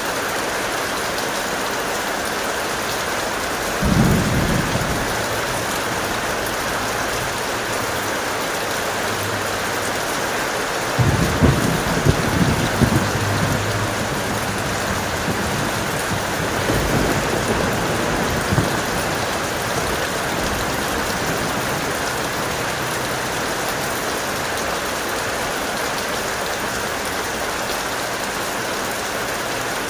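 Heavy rain falling steadily, with thunder rumbling three times: a short low rumble about four seconds in, a longer crackling roll a few seconds later, and a weaker rumble after that.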